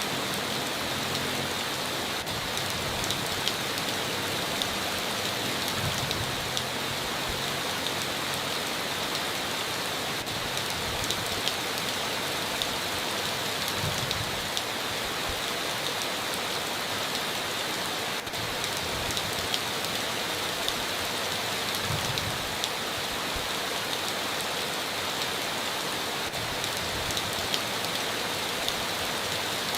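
Steady heavy rain drumming on a tin roof, a constant hiss dotted with many sharp drop ticks.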